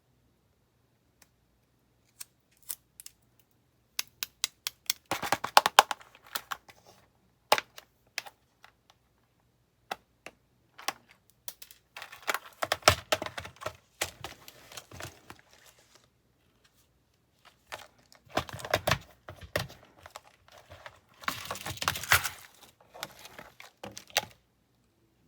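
Small plastic nail-supply packages being unpacked and handled: scattered sharp clicks and taps, with several bursts of crinkling and tearing.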